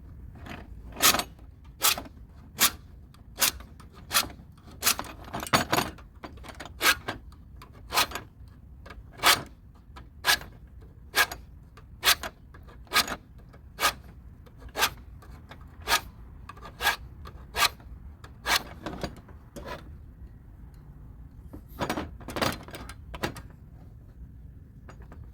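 Hand file rasping on the metal tabs of a washing machine's drive shaft, in steady strokes a little under one a second. The strokes pause for about two seconds near the end, then a few more follow. The filing straightens and evens the bent tabs that grip the drive block.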